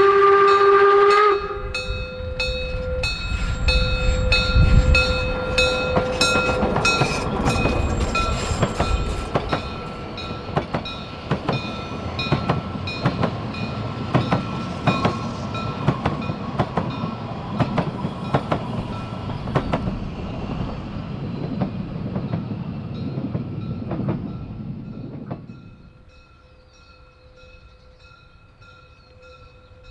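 Narrow-gauge steam locomotive 99 1741-0 gives a whistle blast of about a second and a half. A loud, rhythmic run of chuffing and rail clatter follows as the train works past, then drops away sharply about 25 seconds in.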